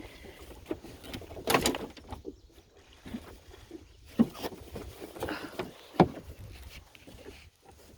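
Canoe paddling: a paddle stroke splashes about a second and a half in, and the paddles knock sharply against the canoe's side twice, about four and six seconds in.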